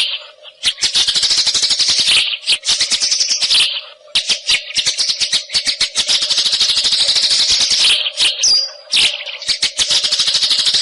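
White-rumped shama singing a fast, chattering rattle of high notes in long runs, broken by short pauses at about 2 s, 4 s and 8 s, with a brief clear whistle near the second-last pause.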